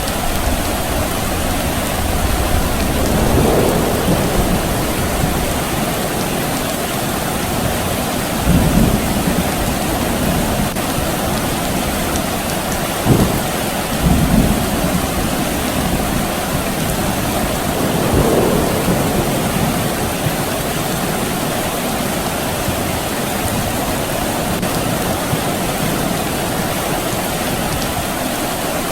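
Steady rain falling, with distant thunder rumbling low several times and one short sharp crack about halfway through.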